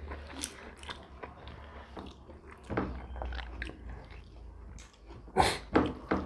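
Close-miked chewing, lip-smacking and mouth noises of people eating fish curry and rice by hand, with small irregular clicks throughout and one sharper click about five seconds in, over a low steady hum.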